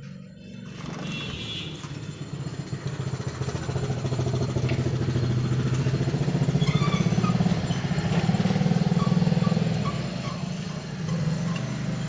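A motor vehicle's engine passing by, growing louder for several seconds and then fading.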